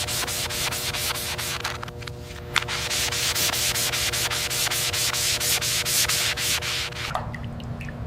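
Rapid, rhythmic rubbing strokes, about five a second, over a steady hum that stops about seven seconds in.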